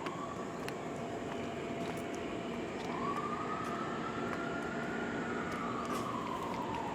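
A distant siren, one slow wail that rises and then falls, over a steady background hiss.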